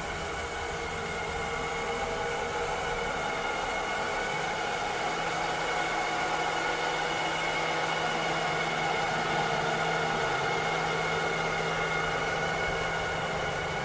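Robot vacuum cleaner running steadily: a constant whir over a hiss, with a few steady whining tones and a low hum that grows firmer about five seconds in.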